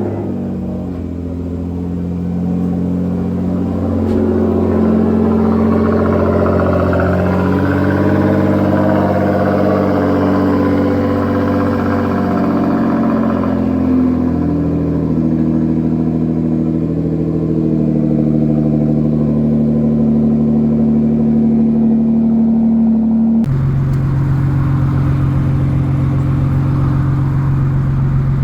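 Nissan GT-R's twin-turbo V6 through an aftermarket exhaust, running just after start-up, its engine note shifting in pitch a few times. About three-quarters of the way in it cuts abruptly to a different, steadier engine note.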